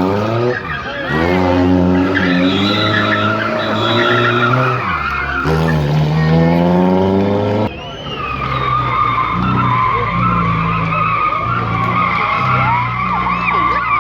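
Classic car engine accelerating hard, its pitch climbing through several gear changes. About eight seconds in, the sound changes abruptly to a steadier engine note with other noise mixed in.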